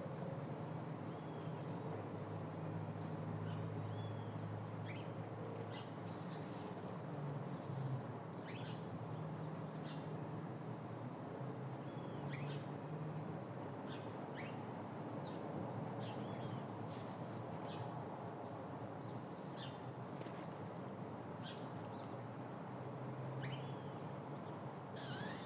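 Small birds chirping now and then: short, high calls, some with a quick up-and-down inflection, scattered throughout over a steady low background hum.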